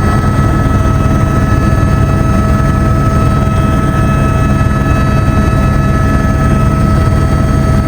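Helicopter in flight: steady, loud rotor and engine noise with a fast fine pulsing, over a steady high whine.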